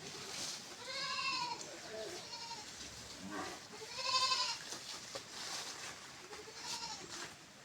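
Goats bleating: two loud, wavering bleats about a second in and about four seconds in, with fainter bleats between.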